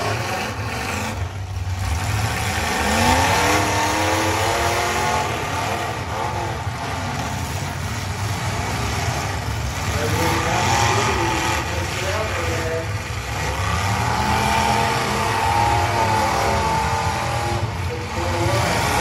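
Several demolition derby cars' engines revving together across the arena, their pitches rising and falling over and over as the drivers accelerate and back off, over a steady crowd din.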